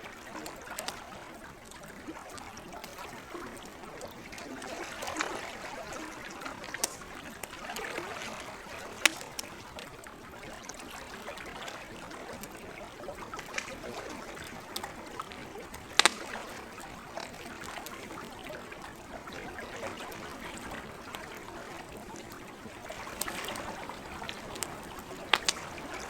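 Campfire crackling, with sharp pops scattered through it, two of them louder than the rest, over a steady wash of lake water that swells and eases.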